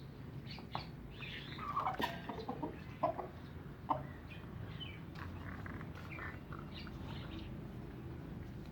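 Hens clucking, with a run of short clucks in the first few seconds, then fainter scattered calls.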